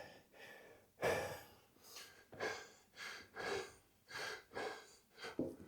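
A man breathing hard and fast, quick gasping breaths in and out at nearly two a second from about a second in. He is out of breath, recovering from a hard conditioning workout.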